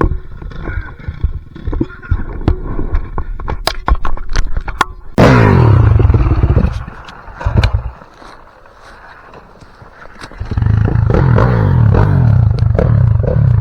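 Knocks and clatter, then a dirt bike engine suddenly revving loud about five seconds in, its pitch falling as it eases off, and running hard again from about ten seconds in.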